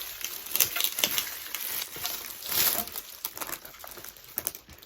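Hands handling chair parts during assembly: irregular rustling, scraping and light knocks, with the loudest rustle about two and a half seconds in and the sounds dying away near the end.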